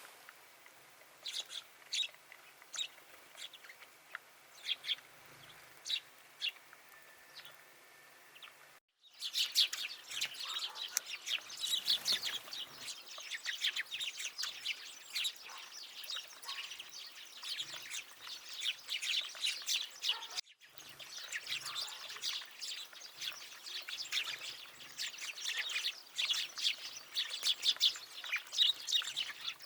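Small songbirds chirping: sparse single chirps at first, then after a short break about nine seconds in, many birds chirping densely and continuously.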